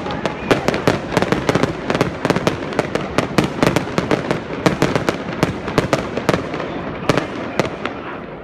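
Aerial fireworks display: a rapid, dense string of bangs from several shells bursting at once, several a second, thinning out near the end.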